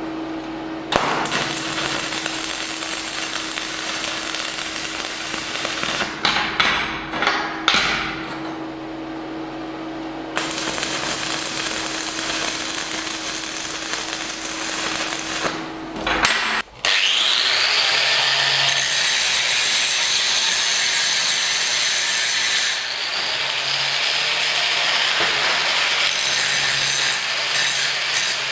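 Power tools working steel. For the first two-thirds there is continuous cutting or grinding noise over a steady hum, with a few knocks. About two-thirds in, a tool spins up with a rising whine and runs on, grinding or rubbing steadily.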